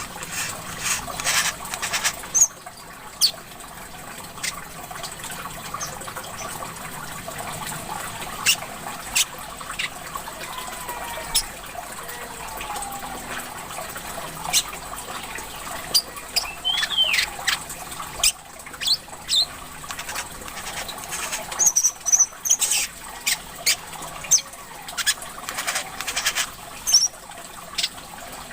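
Brown-throated sunbird (kolibri kelapa) calling in a run of short, sharp chirps and quick rising and falling notes, over trickling water.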